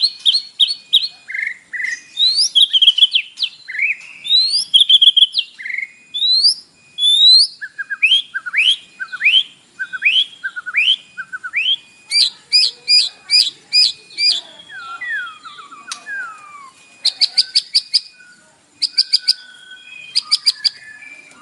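White-rumped shama (murai batu) singing a loud, varied song: quick runs of sharp repeated notes alternate with whistled phrases that glide up and down, each phrase repeated several times with brief pauses between. The song is an 'isian' one, full of learned mimicry.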